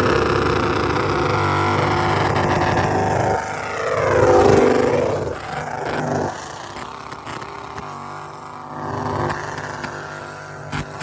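A vehicle engine held at high revs during a burnout, rising once more and then falling away about five seconds in, after which it runs lower and quieter.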